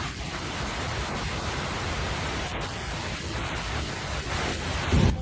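Steady rushing of water, a dense even noise, with a brief low thump near the end.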